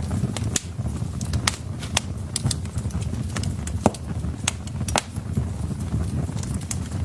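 Wood fire burning in a fireplace: irregular sharp crackles and pops from the logs over a low, steady rumble of the flames, with a louder pop about four seconds in.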